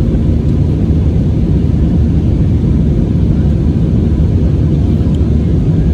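Airbus A320-232 in flight, heard inside the passenger cabin: a steady, even low rumble of its IAE V2500 engines and the airflow past the fuselage.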